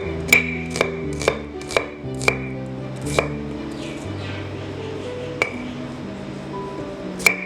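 A knife chopping food on a cutting board: sharp knocks about twice a second for the first couple of seconds, then a few more spaced strikes. Soft instrumental music plays underneath.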